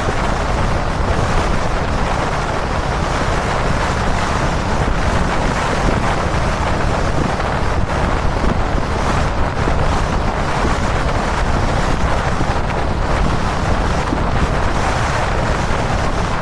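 Steady wind rush over the camera microphone while riding a Kawasaki Dominar 400 motorcycle at expressway speed, with the bike's low engine and road noise underneath.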